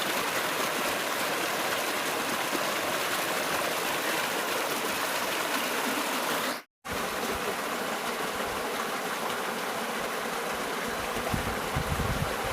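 Steady rushing of flowing river water. The sound cuts out completely for a moment just over halfway through, then resumes, with some low rumbling near the end.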